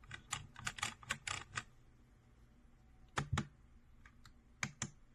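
Typing on a SteelSeries Apex 5 keyboard with clicky Hybrid Blue switches: a quick run of about ten keystrokes in the first second and a half, then a few scattered key presses.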